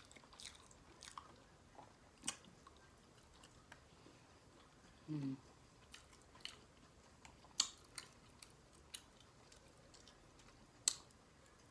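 Close-miked mouth sounds of a person chewing soft roast pork and rice, faint, with scattered sharp wet clicks and smacks. A short closed-mouth "mm" hum comes about five seconds in.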